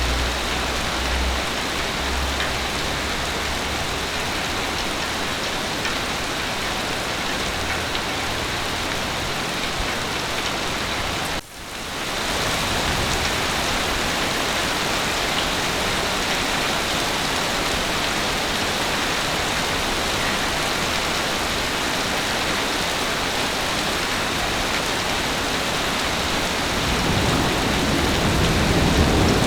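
Heavy rain falling steadily. The sound cuts out for a moment about eleven seconds in and fades back up, and a low rumble of thunder builds near the end.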